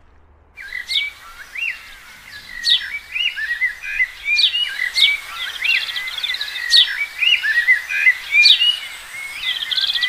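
Birdsong: several small birds chirping and trilling, starting about half a second in, with a sharp high falling note repeated every second or two.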